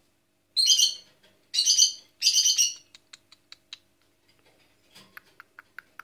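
A bird calling: three loud, harsh calls of about half a second each, then runs of short, quick chirps, about five a second.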